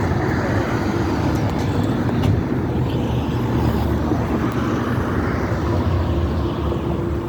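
Car engine running with a steady low rumble and an even hum.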